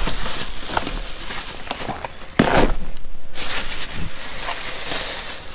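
Packs of ratchet tie-down straps in plastic packaging being handled: plastic rustling and crinkling with light knocks, and one heavier knock about two and a half seconds in.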